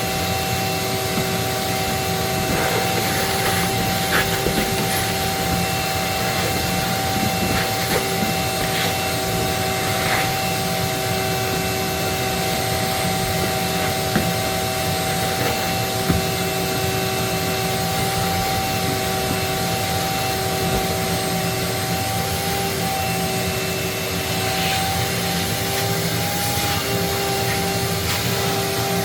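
Vacuum cleaner running steadily with a constant whine, and a few short sharp clicks along the way.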